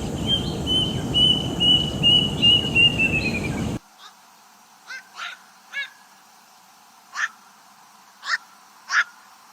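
A songbird repeating a clear whistled note about twice a second, the last notes sliding down in pitch, over a noisy background. It cuts off suddenly, and a different, quieter recording follows with six short, harsh bird calls one to two seconds apart.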